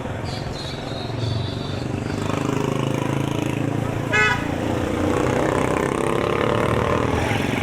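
Busy street traffic: motorbike and vehicle engines running with background crowd voices, growing louder about two seconds in, and a short high-pitched sound about four seconds in.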